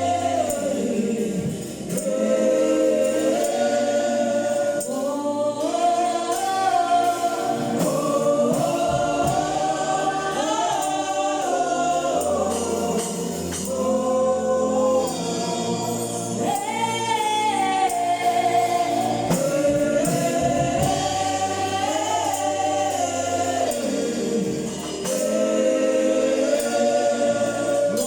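A choir singing a gospel song, with sustained notes that glide between pitches.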